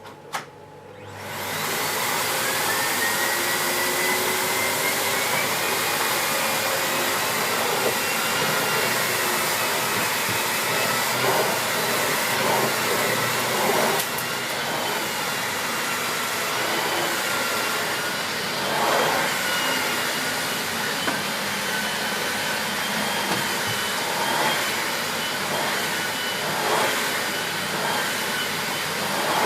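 Miele S6 (C2 Compact) cylinder vacuum cleaner with a 2000 W motor, switched on with a click. Its motor spins up with a rising whine over the first couple of seconds, then runs steadily, its high whine wavering slightly.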